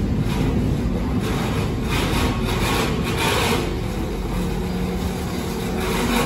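Freight train of loaded flat wagons rolling slowly past on the track: a steady low rumble of wheels on rail with louder rattles every so often.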